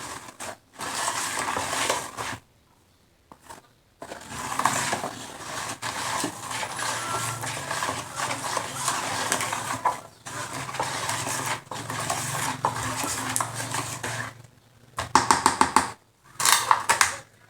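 A spatula stirring and scraping a sugary mix of lemon peels and juice in a bowl, with utensil clatter, stopping briefly about two and a half seconds in. Near the end there is a quick run of taps.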